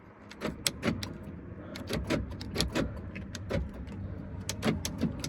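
Power door locks of a 2013 Isuzu NPR cab being worked repeatedly: a series of sharp clicks and clunks, many in quick pairs, as the locks go down and up.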